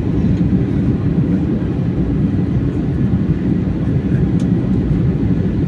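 Airliner cabin noise: a steady low rumble of the engines and airflow, heard from inside the passenger cabin.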